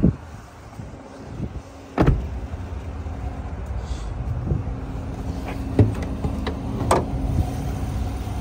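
Pickup truck's engine idling steadily, with a sharp knock about two seconds in and a few clicks later, as of a door and the hood latch being worked.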